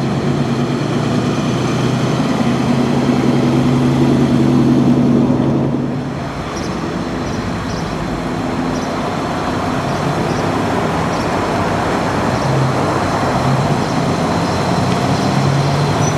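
Car engine running at a low, steady pitch as a custom 1952 Chevrolet moves slowly past. The engine note eases off about six seconds in and comes back stronger near the end.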